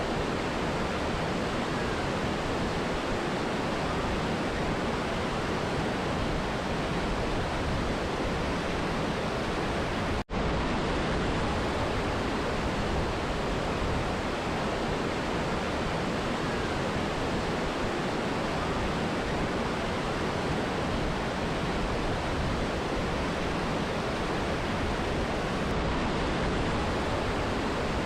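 Steady, even rush of a waterfall and mountain river, with no change in level except a split-second dropout about ten seconds in.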